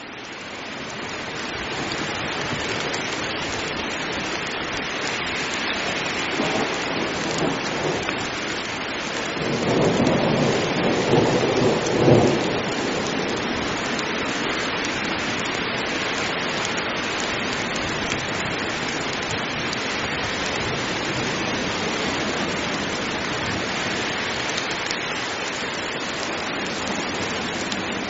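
Heavy rain falling steadily, fading in over the first two seconds. A thunder rumble rolls in about ten seconds in and peaks around twelve seconds, with a fainter rumble a few seconds before it.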